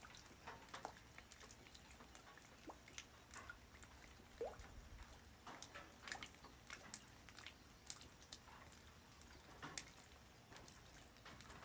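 Light rain falling on the ground, faint: scattered, irregular drops and drips over a soft hiss.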